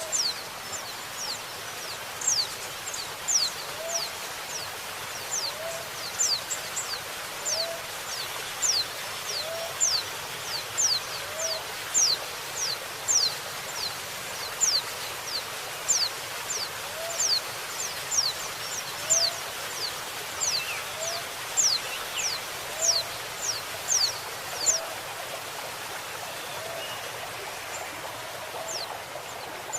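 Female white-eye (pleci) calling in quick, thin, high notes that each slide downward, several a second, over the steady rush of flowing water. A lower, short rising call repeats every second or two. The high calls thin out to a few near the end.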